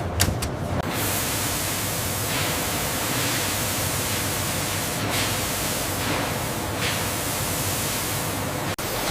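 A few sharp clicks, then a steady hiss of spraying noise that drops out for an instant near the end.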